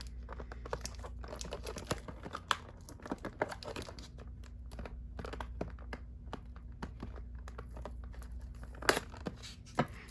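Plastic toy packaging crinkling and crackling as it is handled and pried open, with irregular sharp snaps, the loudest about nine seconds in.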